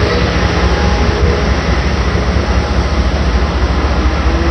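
Steady low rumble and hum of trains standing at a station with their engines and equipment running.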